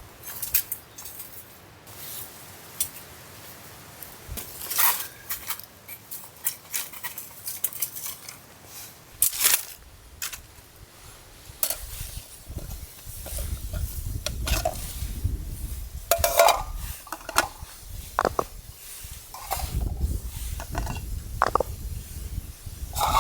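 Irregular clinks and knocks of metal cookware and utensils being handled, some with a short ring.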